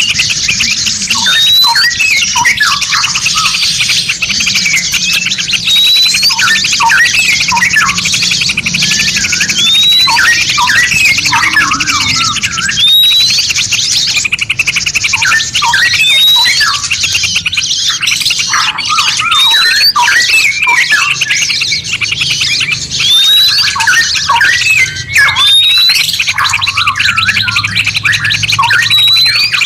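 Several songbirds chirping and whistling together in a dense layered mix, with a short rising whistle about every three seconds over a continuous high buzzing trill and many quick falling chirps.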